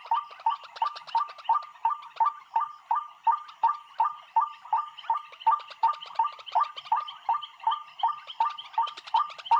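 A bird chirping a short call over and over at an even pace, about three calls a second.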